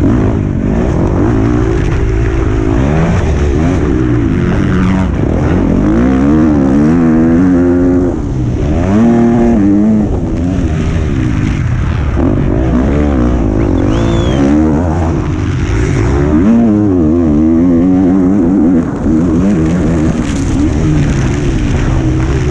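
Motocross bike engine heard from an onboard camera, revving up and down over and over as the rider accelerates, shifts and rolls off the throttle around the track.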